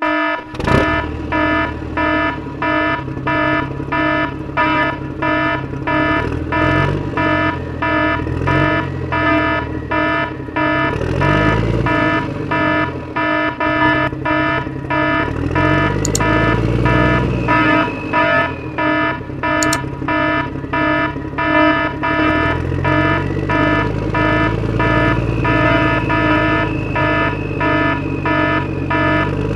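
Truck's reversing beeper sounding about twice a second over a diesel engine revving up and down.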